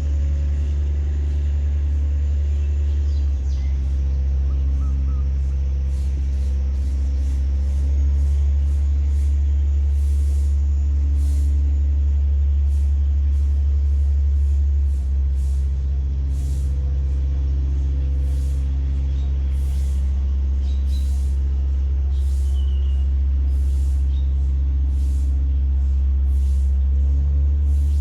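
A river tugboat's diesel engine running steadily under load as it tows a cargo barge, a deep, even drone.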